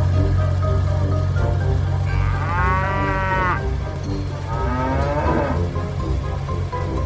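A cow mooing twice, two drawn-out calls over background music with a steady low drone.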